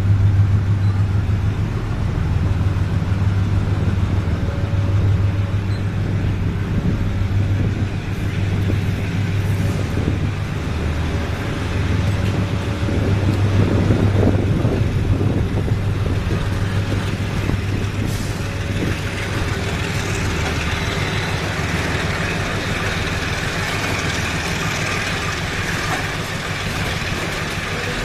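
Loaded iron-ore freight train passing: a diesel locomotive engine runs with a steady low tone while the loaded ore wagons roll by with wheel knocks, and a hiss sets in about two-thirds of the way through.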